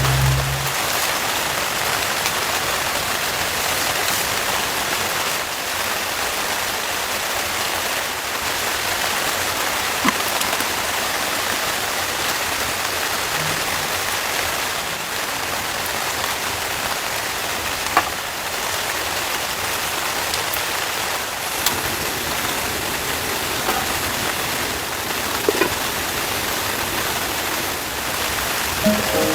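Heavy rain falling steadily on a tent roof, with a few louder single drops striking here and there.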